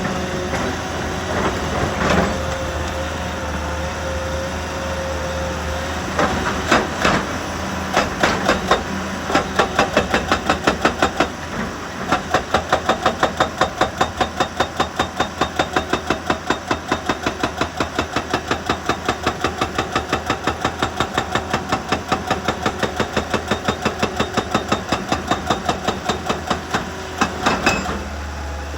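Heavy equipment engine running steadily, with a few knocks at first, then a rapid, regular hammering of about four or five blows a second from about eight seconds in that stops near the end.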